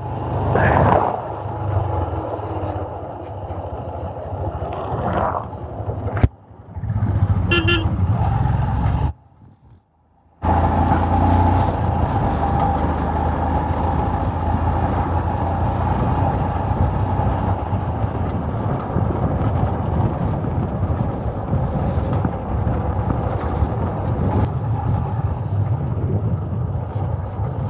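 Royal Enfield Himalayan's 411 cc single-cylinder engine running steadily while riding, with wind and road noise on the helmet-mounted microphone. A vehicle horn sounds briefly about eight seconds in, and the sound drops out for about a second near ten seconds in.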